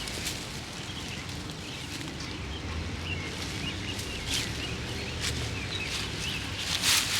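Outdoor garden ambience: faint short bird chirps over a low steady rumble, with a few dry crunches of fallen leaves, bunched near the end.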